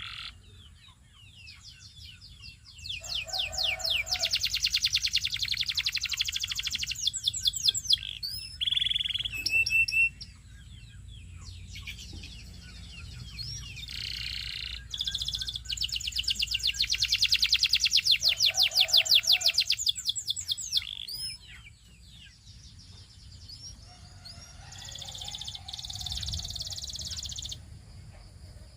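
Domestic canary singing, with two long fast trills of rapidly repeated notes between shorter chirps and whistled notes.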